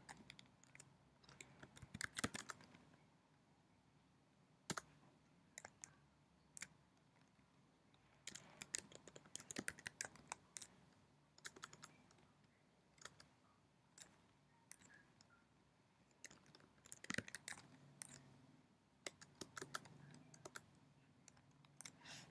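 Computer keyboard typing in short bursts of key clicks separated by quiet pauses.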